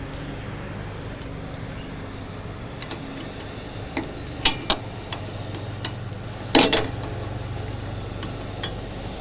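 Metal clinks and taps of a spanner on the truck bed's mounting bolts: a few scattered sharp strikes from about four seconds in, with a quick cluster a little before seven seconds. A steady low hum runs underneath.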